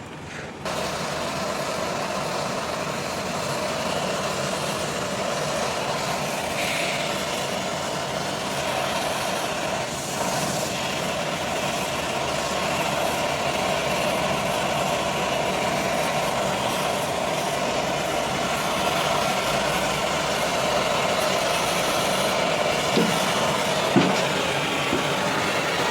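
Gas brazing torch flame burning with a steady hiss on the AC's copper refrigerant pipe to seal the leak, starting abruptly about half a second in.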